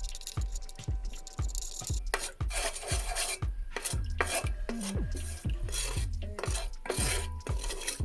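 A metal utensil scraping and stirring in a cast-iron pot of melting paraffin wax, starting about two seconds in, over background music with a steady beat.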